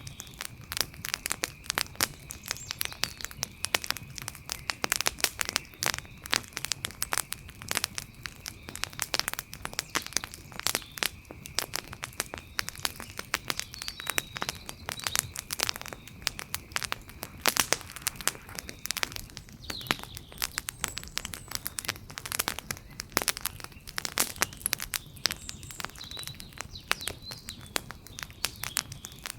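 Wood fire crackling with dense, irregular pops and snaps. A faint steady high whine runs beneath it until about two-thirds of the way through, with a few faint chirps.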